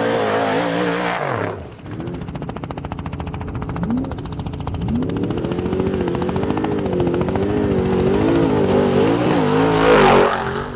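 Off-road race truck engine running hard at high revs, dropping off about a second and a half in, then climbing back up and holding high with the revs rising and falling. A loud rushing burst near the end as the truck passes close.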